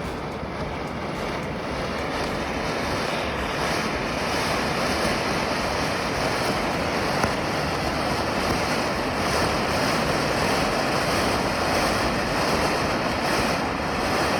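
Firework fountain spraying sparks with a steady, loud hiss, with two sharp pops along the way.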